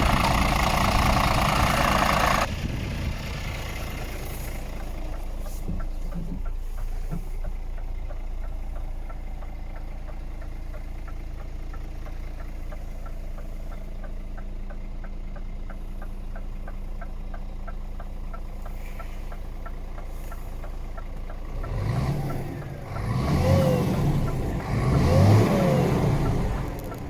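Scania R410 truck's 13-litre inline-six diesel running: louder for the first couple of seconds, then settling to a steady idle, and revved up and back down twice near the end.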